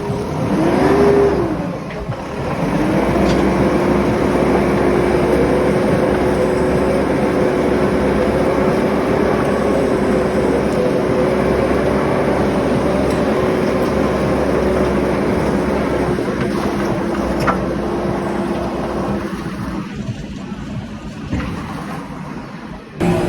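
JCB 3DX backhoe loader's diesel engine revving up and back down briefly, then held at high revs in a steady drone, easing off a few seconds before the end.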